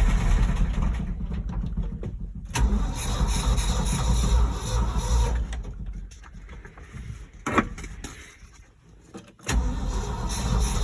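1971 Ford F600's engine, which has a loose connecting rod, being started: it runs in fits, fading out at about a second in and again for a few seconds near the middle before catching and running again near the end. A single sharp click is heard about 7.5 seconds in.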